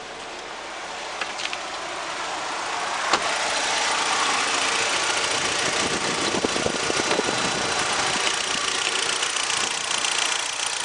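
Chery J11's 2.0-litre SQR4 four-cylinder engine idling steadily, growing louder over the first four seconds, with a single sharp click about three seconds in. The engine is in good running order.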